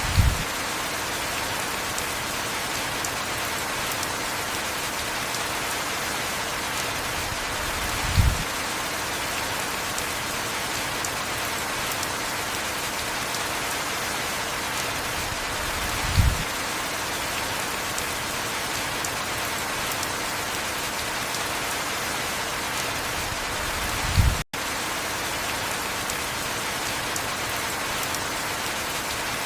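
Heavy rain falling steadily, an even hiss across the whole range. A short low thud sounds about every eight seconds, four times in all. Near the end the sound cuts out for a split second.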